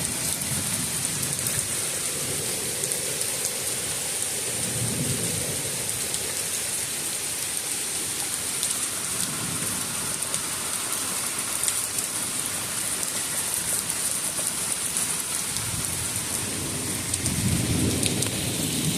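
Heavy rain of a summer thunderstorm pouring down steadily. Low rumbles of thunder swell up about five seconds in and again near the end.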